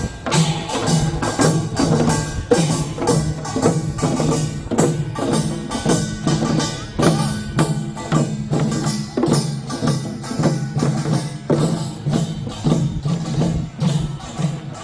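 Korean nongak farmers' band playing: metal gongs and drums struck in a fast, driving, continuous rhythm.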